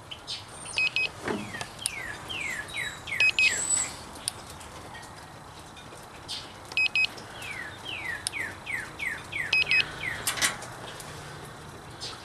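Songbird singing: a quick run of falling chirps, heard twice, over faint scattered ticks.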